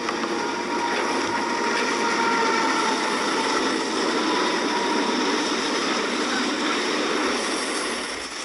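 Norfolk Southern intermodal freight train rolling past, a steady loud noise of wheels on rails, with faint thin tones near 1 kHz above it.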